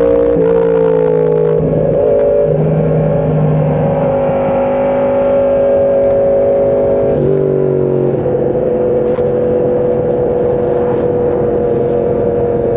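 Sport motorcycle engine running hard at road speed, heard from on board. Its pitch holds steady and steps down twice, near the start and about seven seconds in, as gears change.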